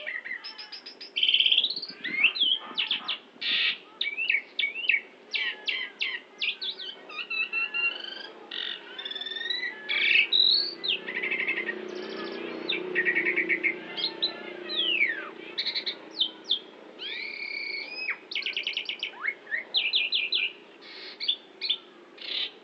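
Pied starling (jalak suren) singing a long, varied song of rapid trills, whistled slurs and buzzy notes in quick succession, full of mimicked phrases of other songbirds such as the white-rumped shama, orange-headed thrush, canary and prinia.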